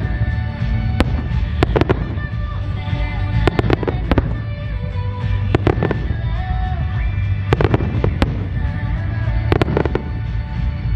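Aerial firework shells in a starmine barrage bursting with sharp bangs, often in close pairs, every second or two, over music playing with the show.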